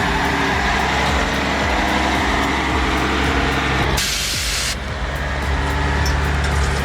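Heavy diesel log truck running, with a short sharp hiss of air brakes about four seconds in.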